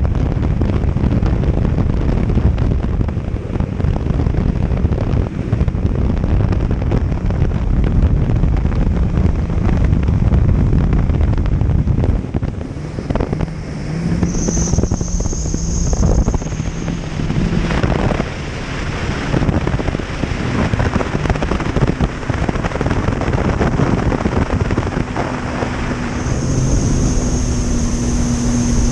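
Jet ski engine running under way, with wind buffeting the microphone. A thin high whine rises over it twice, briefly around the middle and again near the end.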